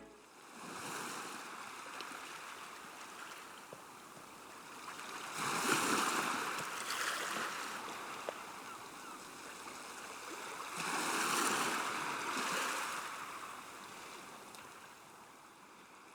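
Sea waves washing in, with two louder surges a few seconds apart, fading out near the end.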